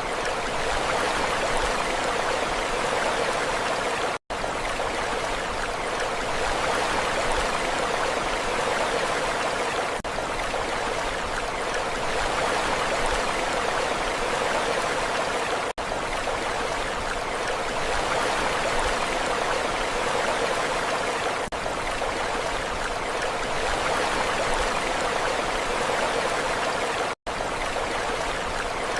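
Steady rushing water, an even hiss with no rise and fall of waves, cutting out for an instant twice.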